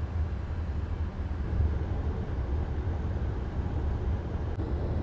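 Car driving along the road, heard from inside the cabin: a steady low rumble of road and engine noise.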